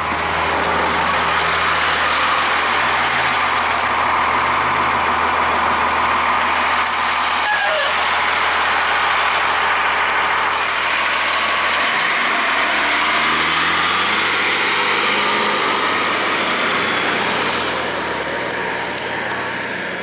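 Cummins ISC diesel engine of a 2002 Blue Bird CS transit bus running steadily, then revving up in a rising climb about twelve seconds in as the bus accelerates away, fading near the end.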